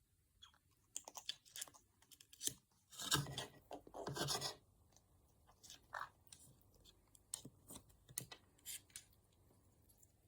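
Irregular crunching and clicking, with two louder stretches of crunching about three and four seconds in.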